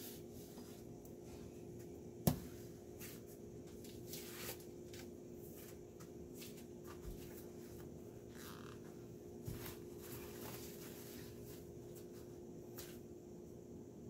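Chicken pieces frying on high heat in a covered pot: a faint, steady sizzle with scattered crackles over a steady low hum. There is one sharp click about two seconds in.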